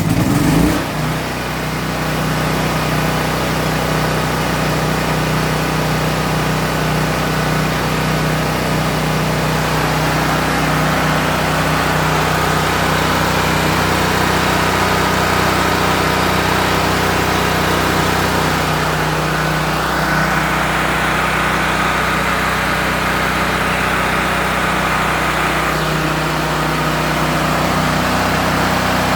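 Firman P05701 portable generator's gasoline engine running steadily with no load, just after starting on the first pull. It surges briefly about a second in, then settles to an even run.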